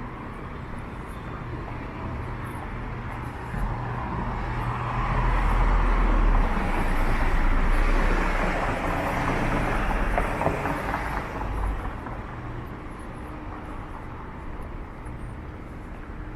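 A motor vehicle passing close by on a city street. Its rumble and tyre noise build from about four seconds in, peak a few seconds later and fade away, over a steady background of street noise.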